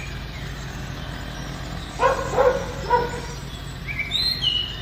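A dog barking a few short times about two seconds in, over a steady low outdoor background hum. High bird chirps come in near the end.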